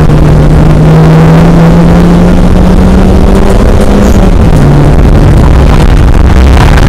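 Rally car engine heard loudly from inside the cabin, pulling with revs climbing slowly, then dropping sharply about four seconds in and running on steadily, over road and wind noise.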